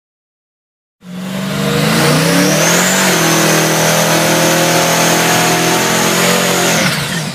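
High-performance vehicle engine running hard under full throttle. Its pitch climbs for about two seconds, then holds steady with a high-pitched whine over it, and it drops away sharply near the end.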